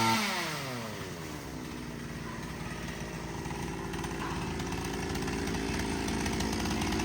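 Chainsaw engine dropping from high revs in the first second, then running steadily at a lower speed, its pitch creeping slowly upward.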